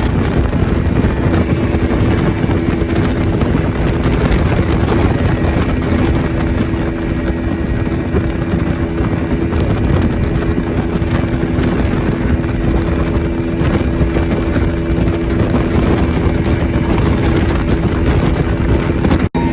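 Boat engine running steadily with a constant hum; the sound cuts out for an instant near the end.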